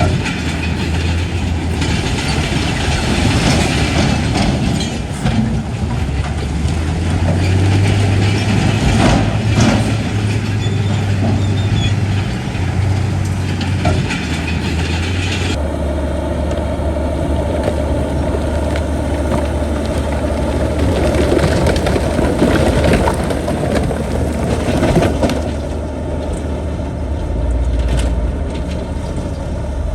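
Heavy diesel earthmoving machinery running under load, with metal clanks and rattles throughout. The sound changes abruptly about halfway through.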